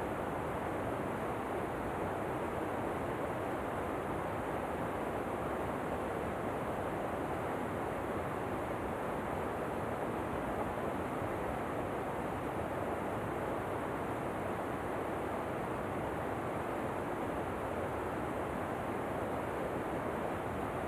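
Waterfall cascading, a steady even rush of falling water with no breaks or changes.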